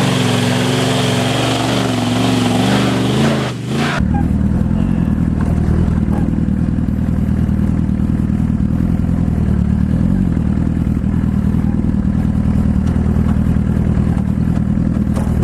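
Motorcycle engine running steadily, under heavy wind or road hiss for the first four seconds, then cutting abruptly to a deeper, evenly pulsing engine note with little hiss.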